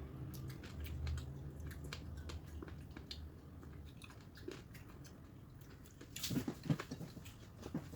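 Close-miked chewing and biting: a person eating, with a run of small wet mouth clicks and a louder cluster of bites about six to seven seconds in.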